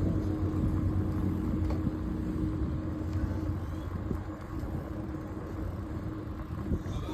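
A car engine running with a low rumble, growing quieter over the first few seconds.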